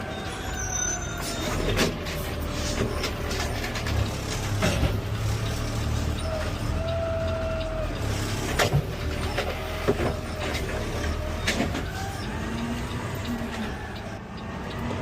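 Peterbilt 520 CNG automated side-loader garbage truck running, with a steady low engine hum. Several sharp knocks and clanks come through it, along with faint whines that rise and fall in pitch.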